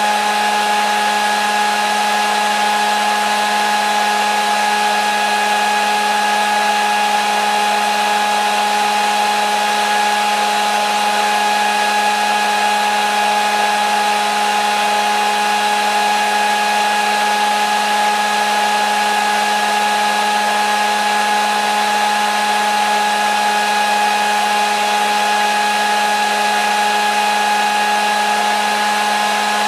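Hair dryer running steadily: a constant blowing hiss with a steady motor hum, used as continuous white noise for putting a baby to sleep.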